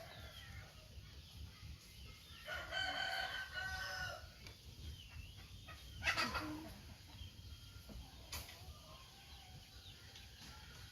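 A rooster crowing once, one long pitched call about two seconds in. A shorter, louder sharp call follows about six seconds in.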